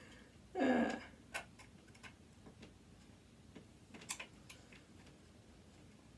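Faint, irregular light clicks and taps of a screwdriver and loose metal parts inside a sewing machine being dismantled, with a brief voice sound about a second in.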